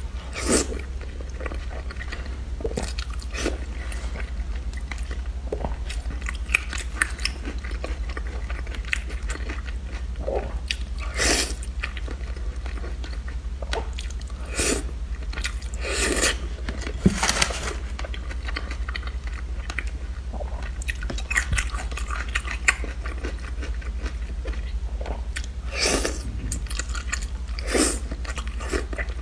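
Close-up eating sounds: biting and chewing of soft braised pork belly (ba zi rou), with wet mouth noises coming at irregular intervals. A steady low hum runs underneath.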